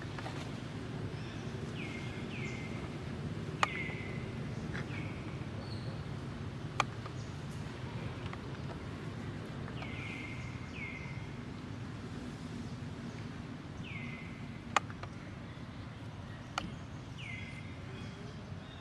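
Repeated short, high-pitched animal chirps that slide downward in pitch, mostly in pairs a second or two apart, over steady low background noise. A few sharp clicks are scattered among them.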